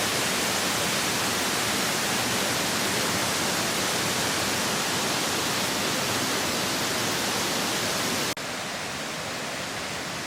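Waterfall in heavy flow after rain, its falling water making a steady, loud noise. About eight seconds in it cuts suddenly to a quieter, duller stretch of the same water noise.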